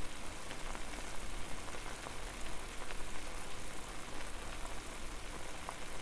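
Water at a steady boil: a constant bubbling hiss dotted with many small pops.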